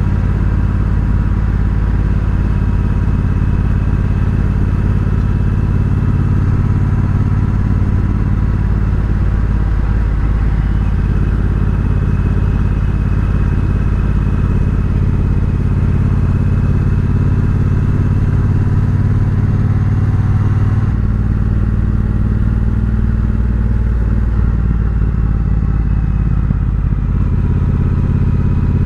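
Triumph Bobber's 1200 cc parallel-twin engine running through aftermarket Vance & Hines pipes while the bike is ridden at a steady pace. The engine note holds steady, then changes about two-thirds of the way through, as with a change of gear or throttle.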